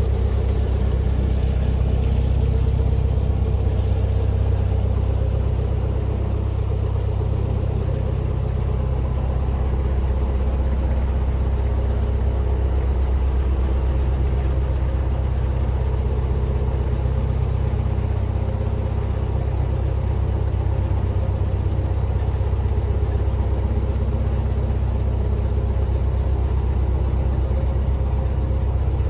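Narrowboat's engine running steadily while under way, a constant low drone with no change in speed.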